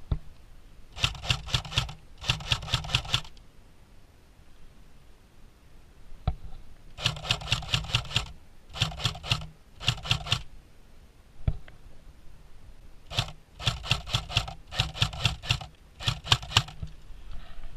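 Airsoft gun firing about eight short bursts of rapid, evenly spaced shots, with a single sharp click twice between bursts.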